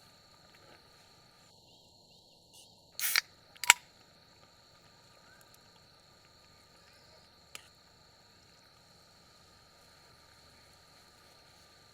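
Insects, crickets by the sound of it, trilling steadily in a high even tone. A few sharp clicks or knocks about three seconds in, the loudest, and another single click later.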